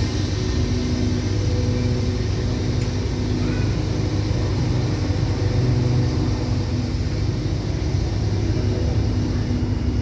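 Passenger express train moving slowly along the platform: a steady low rumble with a constant engine hum.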